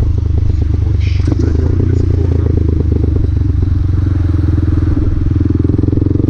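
Honda Grom (MSX125) motorcycle's small single-cylinder four-stroke engine running steadily while riding, with a fast, even exhaust beat.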